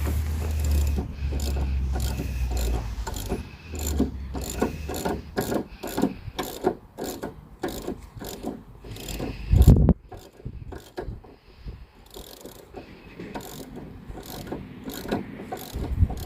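Ratchet wrench clicking in repeated strokes as it loosens the strut's top nut. Wind rumbles on the microphone in the first few seconds, and there is one loud knock about ten seconds in.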